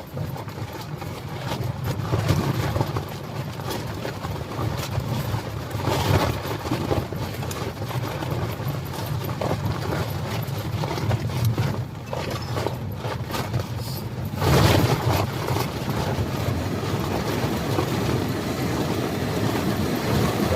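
Gale-force wind buffeting a small camping tent and the microphone: a continuous low rumble with gusts and the tent fabric shaking. A stronger gust comes about two-thirds of the way through.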